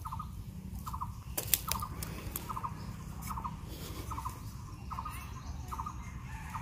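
A bird calling over and over: a short note of three or four quick pulses, repeated evenly a little more than once a second. A couple of sharp clicks come about a second and a half in.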